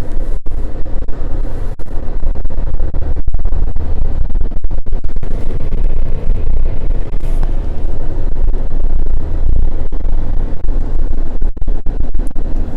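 A vehicle on the move, heard as a loud, steady low rumble of engine and road noise that cuts out for an instant a few times.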